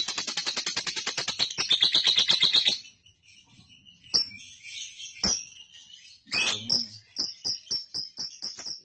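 Lovebird chattering: a loud, fast, even train of chirps (the long ngekek song) that stops abruptly about three seconds in. Scattered single calls follow, then a run of short, quicker chirps near the end.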